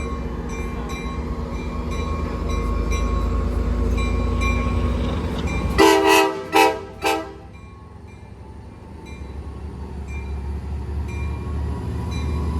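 Diesel commuter locomotive idling with its bell ringing about every half second, then three short horn blasts about six seconds in as the train is cleared to depart. Afterwards the engine rumble drops away and slowly builds again as the train gets moving.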